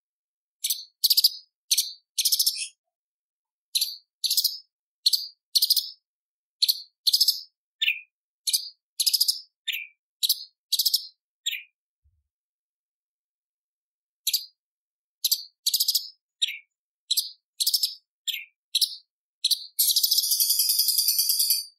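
Orange-bellied leafbird singing: quick phrases of short, sharp, high notes, with a pause of about two seconds partway through. The song ends in a fast, continuous rattling trill lasting about two seconds.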